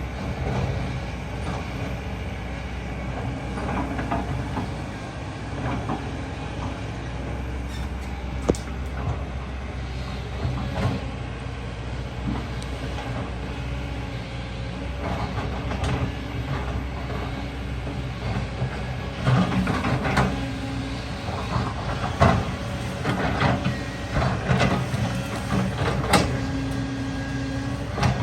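Excavator's diesel engine running steadily, with repeated metallic clanks and knocks from the machine working, coming thicker in the second half.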